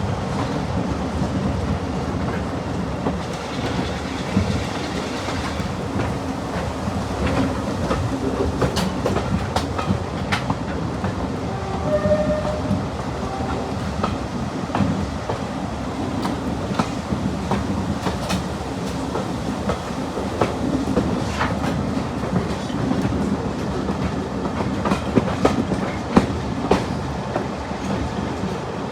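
A Class 47 diesel-hauled passenger train running along the line: a steady rumble with the clickety-clack of the carriage wheels over rail joints, many sharp clicks scattered throughout.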